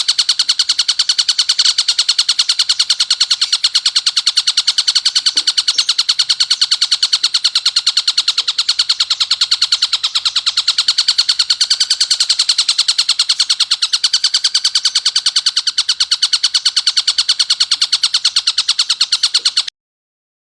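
Tengkek buto (a kingfisher) giving a harsh, fast rattling call, a rapid unbroken chatter of many strokes a second, high-pitched and loud, which stops abruptly about a second before the end.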